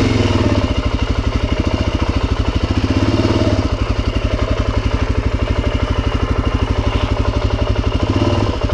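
Suzuki DRZ400's single-cylinder four-stroke engine idling, a steady fast pulse of firing strokes.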